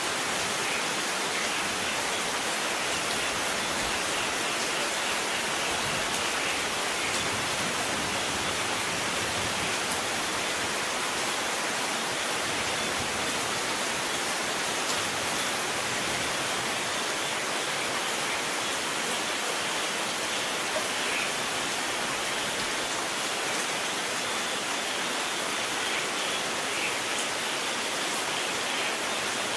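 Steady heavy rain with an even hiss and scattered patter of drops; no thunder.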